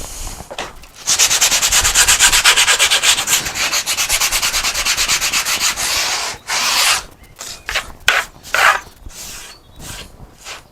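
Hand sanding along the edge of a wooden board: a run of fast back-and-forth strokes for about five seconds, then a few slower, separate strokes.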